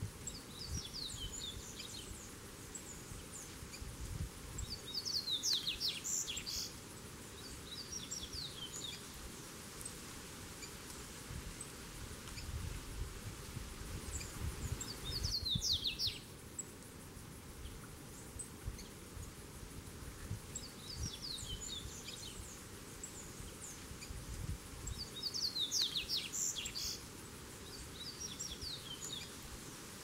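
Small seedeater singing: repeated short phrases of rapid, high twittering notes, each lasting one to two seconds with pauses of several seconds between them, over a faint low background rumble.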